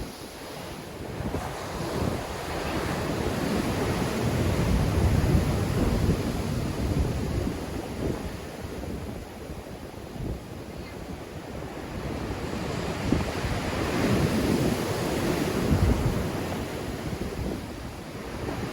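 Sea waves breaking and washing on the shore in a strong wind, with wind buffeting the microphone. The surf swells twice, about a third of the way in and again near the end.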